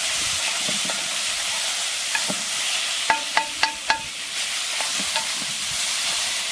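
Sheep tails and vegetables sizzling as they fry in a cast-iron pot, stirred with a wooden spoon. About three seconds in come four quick knocks with a short ring, the spoon being tapped on the pot.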